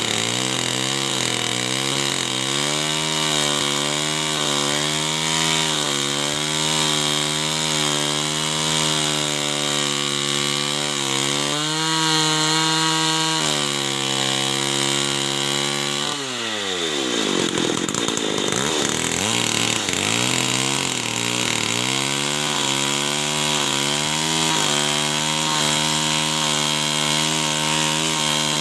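Two-stroke chainsaw running under load, cutting wood, its engine note wavering. About halfway through the pitch drops sharply and then climbs back over a couple of seconds as the saw keeps cutting.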